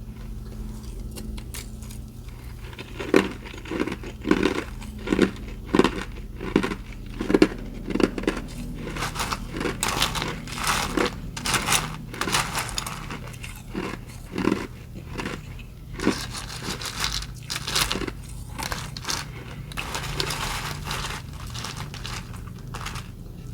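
Person crunching mouthfuls of ice close to the microphone: a steady run of sharp crunches, about one every two-thirds of a second, starting about three seconds in and growing denser later on.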